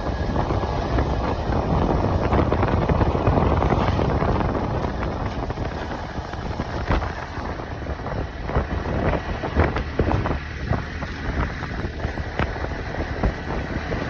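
Wind buffeting the microphone over the rumble of a moving vehicle, with scattered rattles and knocks in the second half.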